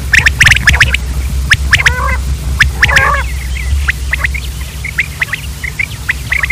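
Common quail calling: a rapid run of short, sharp chirps in the first second, then scattered single chirps and short chirp groups. A steady low hum runs underneath.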